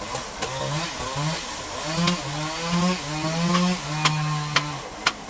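Chainsaw engine revving up and down in short spurts, its pitch stepping between higher and lower speeds, with several sharp knocks.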